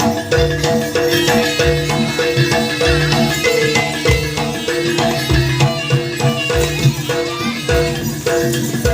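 Live gamelan-style ensemble accompanying a jaranan (kuda kepang) dance: struck metal tuned percussion rings out repeated notes over a steady beat of low drum strokes.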